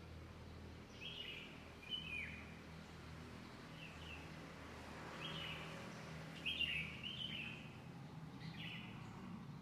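Small birds giving short chirping calls that slide downward in pitch, repeated about every one to one and a half seconds, sometimes two in quick succession, over a steady low background hum.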